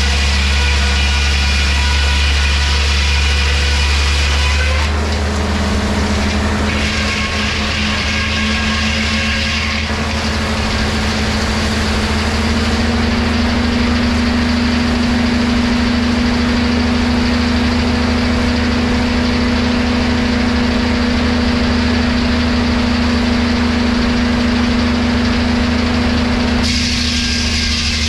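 Engine-driven wood-cutting machinery running continuously with a strong low hum. Its pitch shifts about five seconds in and again partway through, and a higher hiss thins out and then comes back strongly near the end.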